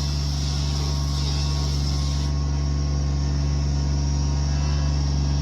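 An engine of the land-clearing machinery running steadily at an even speed, with a constant low hum.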